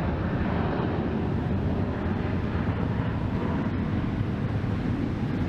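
Jet airliner engines, a steady low rumble that holds even throughout.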